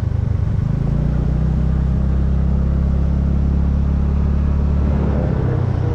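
Motorcycle engine running under way at a steady pitch, its note changing about a second in and again near the end.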